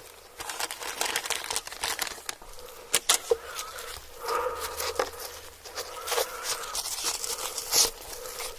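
Close-miked eating sounds: crackling and crunching with many sharp clicks as food is bitten and chewed. The loudest clicks come about three seconds in.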